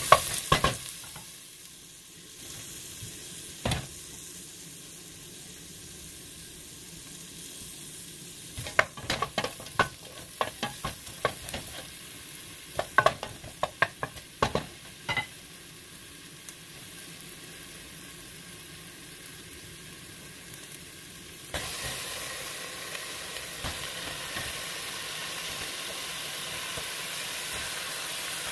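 Onion, garlic and ginger sizzling in oil in a stainless steel pot, stirred with a wooden spoon that clicks and knocks against the pot in a run of strokes around the middle. About three quarters of the way through the sizzle gets suddenly louder and stays so as raw chicken pieces go into the hot pot.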